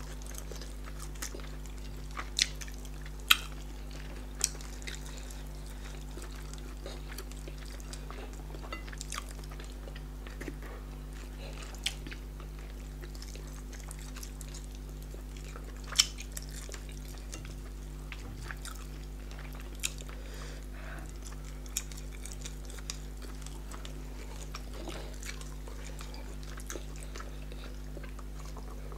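Close-up eating sounds: chewing and wet mouth noises as two people eat yam fufu and tilapia in pepper soup with their fingers, with scattered sharp smacks and clicks, the loudest about three seconds in and again about sixteen seconds in. A steady low hum runs underneath.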